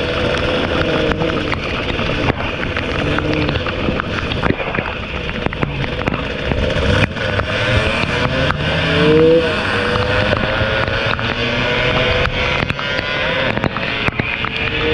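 Two-stroke motorcycle engine running hard under way, its pitch climbing as it revs up a little before halfway and again near the end. Under it is a steady hiss of wind and rain on the microphone, broken by sharp clicks.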